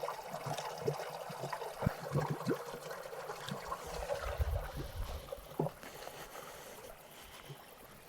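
Small mountain stream trickling over stones, with scattered small splashes; it grows quieter toward the end.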